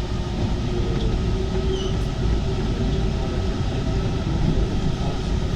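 Alstom MP 05 rubber-tyred metro train running through a tunnel: a steady rumble of tyres and running gear with a faint, even hum.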